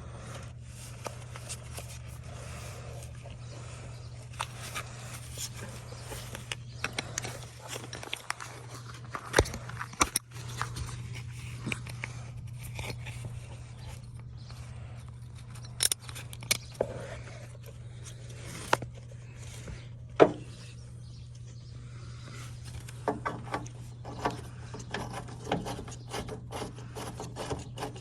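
A screw being turned in by hand on a truck part: scattered small metal clicks and scrapes, a few sharper clicks among them, over a steady low hum.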